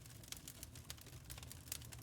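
Wood fire crackling: irregular small sharp pops and snaps over a low steady rumble of burning.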